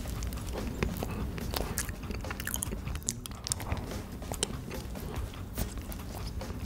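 Close-miked biting into and chewing a chocolate-coated snack cake: a bite at the start, then steady soft chewing with many small mouth clicks.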